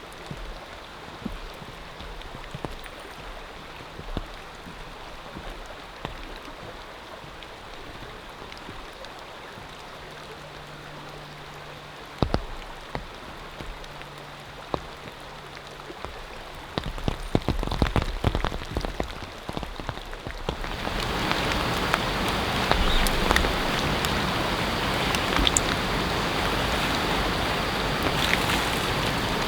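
Rain falling, with scattered individual drops ticking close by; about twenty seconds in the rain grows clearly louder and denser.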